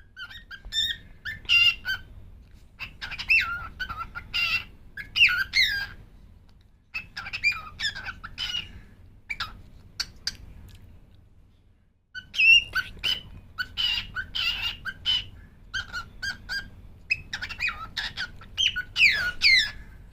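Cockatiel chattering and whistling in bursts of quick chirps and squawky calls that slide up and down in pitch. Just before halfway it thins to a few scattered clicks and chirps, then breaks into busy chatter again.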